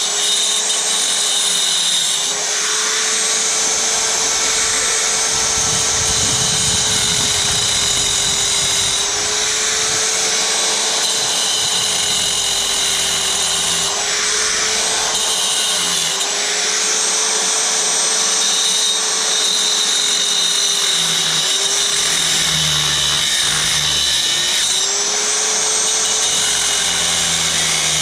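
A motor-driven machine or power tool running steadily, its pitch rising and sagging slightly every few seconds as the load changes.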